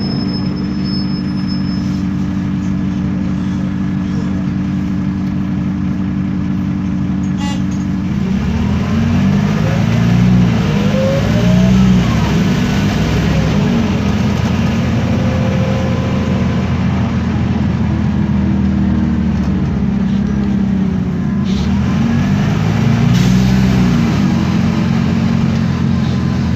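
Isobus City 1200 city bus's MAN D0836 LOH diesel engine running steadily at idle. A sharp click comes at about eight seconds in, and then the bus pulls away, the engine's pitch rising and falling again and again as the ZF Ecomat six-speed automatic shifts through its gears.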